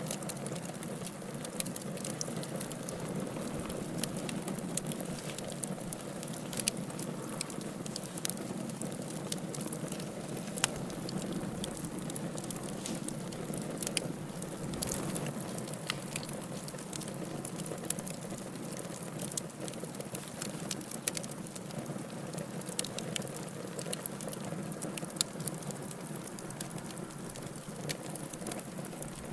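Wood fire burning in a fireplace: a steady hiss and rustle of the flames with sharp crackles and pops at irregular moments, a few of them much louder than the rest.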